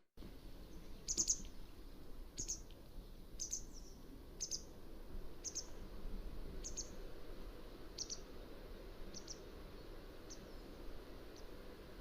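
Mountain wagtail giving a series of short, sharp, high call notes, about one a second, getting fainter toward the end.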